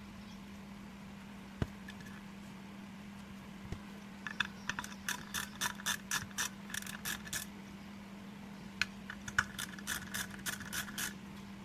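Small metallic clicks and taps of hand tools on a hard drive's metal parts as they are worked loose and removed. The clicks come in two quick runs of about three a second, over a steady low hum.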